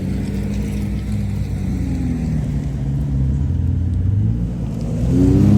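Car engine running at low revs, then its pitch starts to climb near the end as it accelerates.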